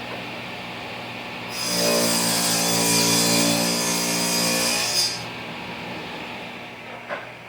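Table saw cutting a shallow quarter-inch dado groove in a drawer-box side, one pass from about a second and a half in to about five seconds, with a steady motor hum under the cutting noise. The sound then drops off, and there is a short click near the end.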